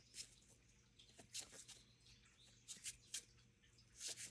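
Near silence: room tone with a handful of faint, brief rustles or flicks.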